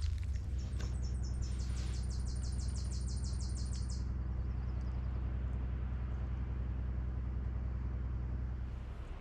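Small portable generator running steadily with a low, even hum that drops in level near the end. Over the first four seconds a fast high-pitched trill of about eight pulses a second sounds above it, then stops.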